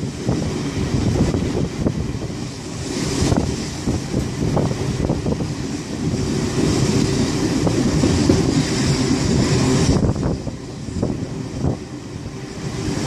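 A heritage passenger train running, heard from on board the carriage: a steady rumble of wheels on rail with now and then a sharp click. A hiss rises from about three seconds in and drops away near ten seconds.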